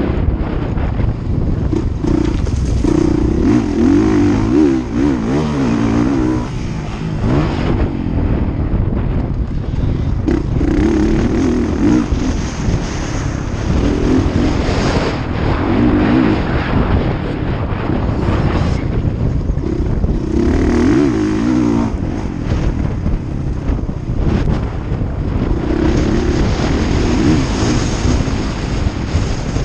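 Motocross bikes running on a track, engines revving up and down in repeated bursts as riders accelerate out of turns and over the course, about five times, over a constant low rumble.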